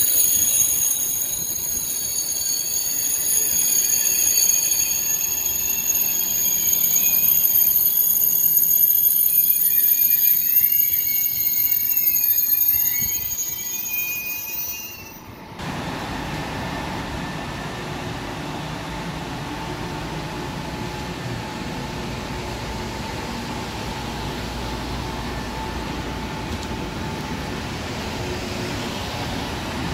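KTX-Sancheon high-speed train passing along the platform, its wheels and brakes squealing with several high, wavering tones over the running noise for about the first fifteen seconds. About halfway through the squeal stops abruptly, giving way to a steady train rumble with a faint hum.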